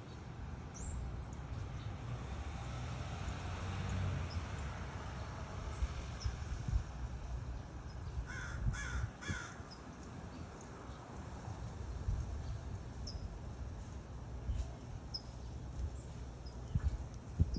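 A crow calling three caws in quick succession about halfway through, over a steady low rumble and scattered short high bird chirps. A low thump near the end.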